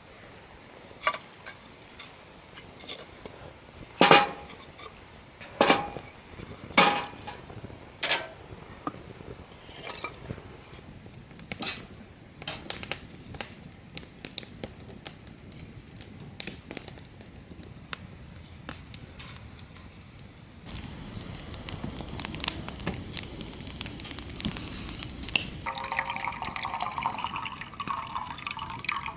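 Dishes and utensils clinking and knocking, a dozen or so sharp strikes over the first half, then liquid poured into a vessel, a steady run of water starting about two-thirds of the way through.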